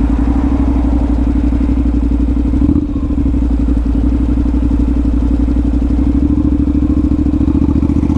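2015 Honda CTX700's parallel-twin engine running steadily while the bike is ridden, with a brief dip about three seconds in as the automatic dual-clutch transmission changes gear by itself.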